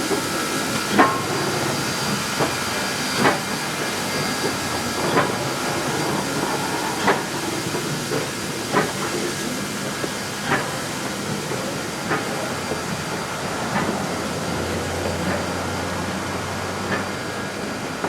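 Great Smoky Mountains Railroad steam locomotive #1702, a 2-8-0, hissing steam as it moves along the track, with sharp knocks about every two seconds.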